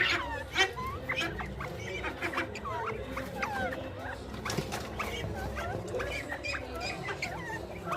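Northern bobwhite quail giving many short, soft chirping and peeping calls, with several birds overlapping. A steady hum runs underneath.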